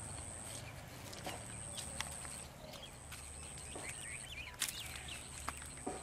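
Rural outdoor ambience: a few birds chirping briefly a little before and after the four-second mark, over a thin high steady tone that stops and starts and a low rumble, with a few scattered clicks.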